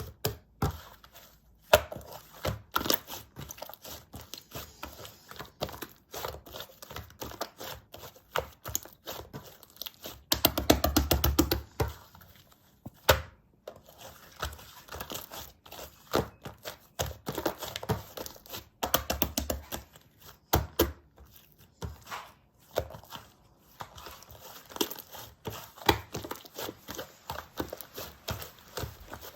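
Hands pressing, stretching and poking slime, making a steady stream of sticky clicks and crackles, with a denser, fuller run of them about ten seconds in.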